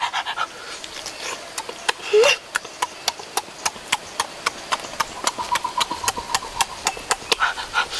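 Loud open-mouth chewing and lip smacking while eating roasted duck, a rhythm of wet clicks about three to four a second. About two seconds in, a short rising vocal sound from the eater is the loudest moment.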